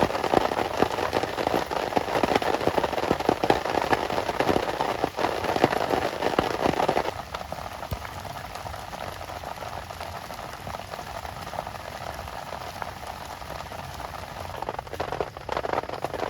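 Heavy rain drumming on a surface as a dense patter of drops. About halfway through it drops suddenly to a softer, thinner patter, then grows heavier again near the end.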